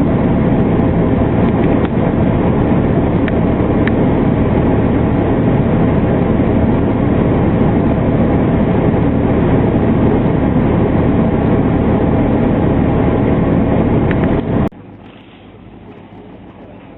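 Loud, steady vehicle running noise that cuts off abruptly about fifteen seconds in, leaving a much quieter steady hum.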